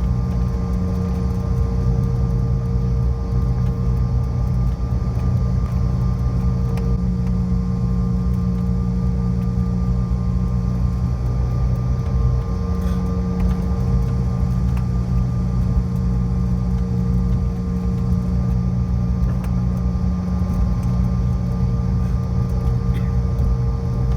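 Steady cabin noise inside a CRJ700 regional jet: its rear-mounted turbofan engines at low power, giving an even low rumble with several steady humming tones.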